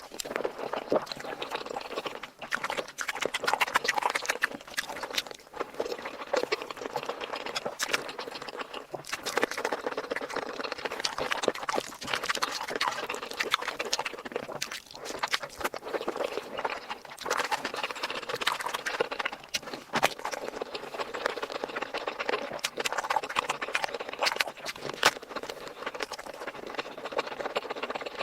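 Close-miked eating sounds: wet chewing and lip smacking, a rapid, irregular run of moist clicks and snaps.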